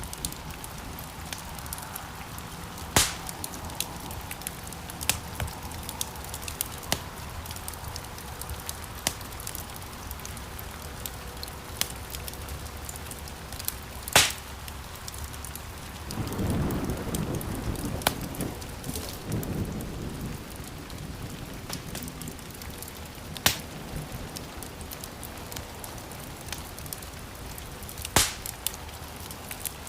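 Wood fire crackling in a stone fireplace: a steady hiss with frequent small crackles and a handful of louder, sharp pops. About halfway through, a deeper rushing swell of flame lasts a few seconds.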